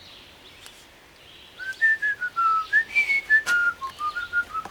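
A man whistling a tune, a run of single clear notes stepping up and down, starting about a second and a half in, with a couple of light clicks from the work.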